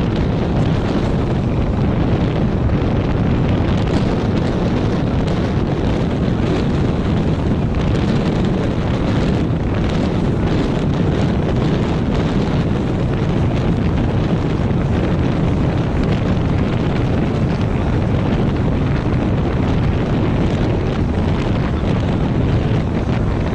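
Passenger train running steadily along the track, a continuous rumble of wheels and carriage noise with no horn or breaks in it.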